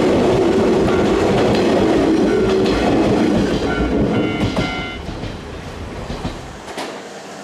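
Electric train running past on the Izukyu Line, a heavy rumble with wheel knocks that fades away after about four seconds, with a few brief high-pitched tones as it goes.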